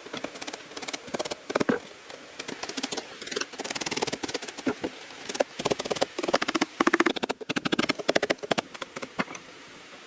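Hand work on bamboo or wood: quick runs of sharp clicks and knocks with short pauses between.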